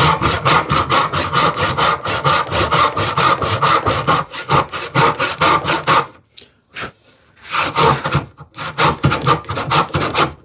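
Tenon saw cutting a tenon cheek in wood by hand, in quick, even back-and-forth strokes. The strokes pause for about a second and a half roughly six seconds in, then resume. The saw binds a little in the wide cut because it cannot clear all the sawdust, not for lack of sharpness.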